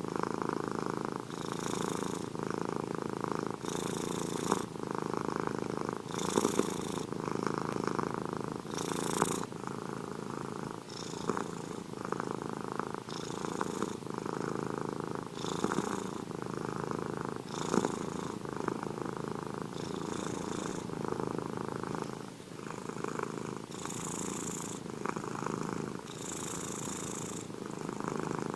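Domestic cat purring close up, continuous, with the purr swelling and easing with each breath about every two seconds.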